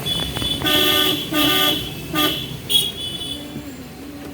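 Vehicle horn honking in three short blasts, the first two about half a second each and the third briefer, followed by a short high beep, over the low rumble of a car driving on the road.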